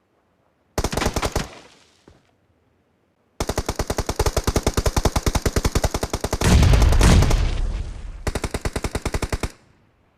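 Automatic gunfire in a shooter video game: a short burst of rapid shots about a second in, then a long sustained burst of about ten shots a second lasting some six seconds. A heavy low thud swells in the middle of it before the firing cuts off.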